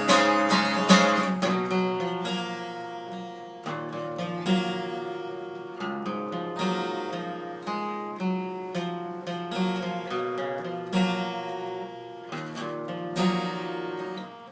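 Acoustic guitar playing the song's closing outro after the last sung line: chords struck every second or two, each left to ring and fade.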